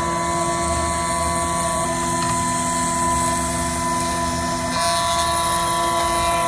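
Dongdo 2019 desktop CNC machine running a milling pass over a phone IC, its small spindle and axis motors making a steady high whine over a hum. The pitch pattern shifts twice, about 2 s and about 5 s in. The pass grinds the chip's top layer down toward its pins.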